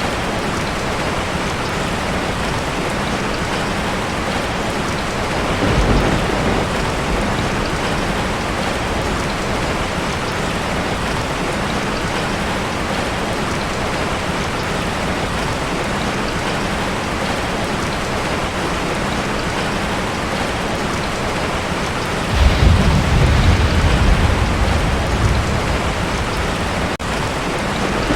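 Heavy rain drumming steadily on a tin roof, with a short roll of thunder about six seconds in and a louder, longer rumble of thunder near the end.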